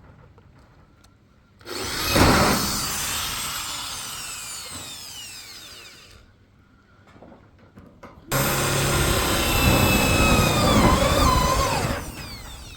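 A power tool running in two bursts of about four seconds each: the first starts suddenly and fades away slowly, the second holds steady and cuts off sharply near the end.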